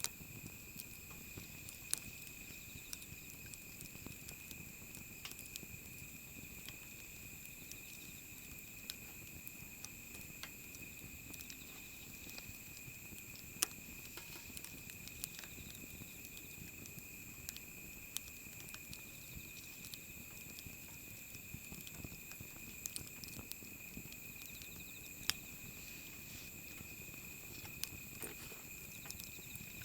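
Wood fire crackling: irregular sharp pops and snaps over a soft low rumble, with a few louder cracks, one about two seconds in, one about halfway through and one near the end.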